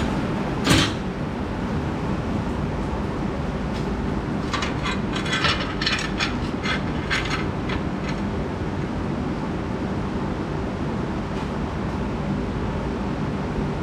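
Steady mechanical rumbling noise, with one sharp knock about a second in and a quick run of clicks and taps in the middle.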